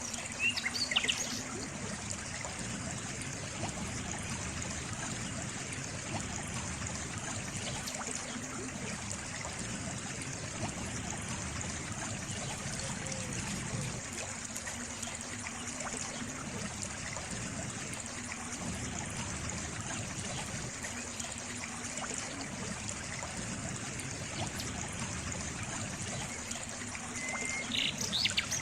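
Water trickling steadily in a small stream. Short high chirps come about a second in and again near the end.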